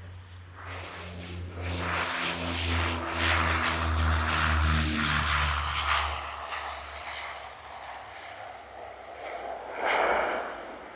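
De Havilland Canada Dash 8-100 twin turboprop passing on its landing, a propeller drone of low steady tones under a rush of engine noise that builds to its loudest midway and then fades. A short burst of rushing noise comes near the end.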